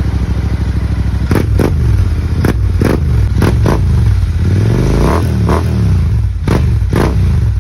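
Royal Enfield Continental GT 650's 648 cc parallel-twin running through an aftermarket exhaust, idling between quick throttle blips, with several sharp cracks and one longer rev that rises and falls about five seconds in.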